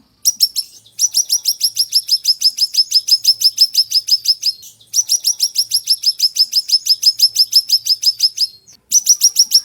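A siri-siri songbird singing long rapid trills of sharp, high, down-slurred notes, about eight a second, broken by a few short pauses.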